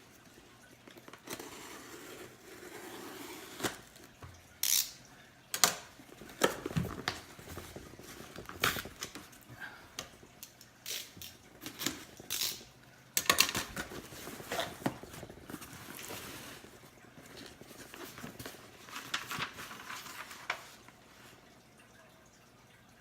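A cardboard shipping box being opened by hand: irregular sharp knocks and clicks of cardboard and contents being handled, with stretches of rustling and crinkling packing material and some tearing.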